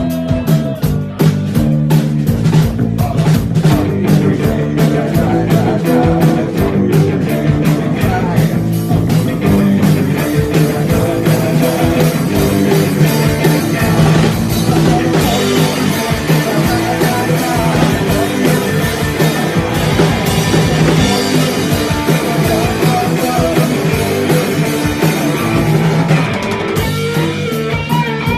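Rock song with guitar and a steady beat.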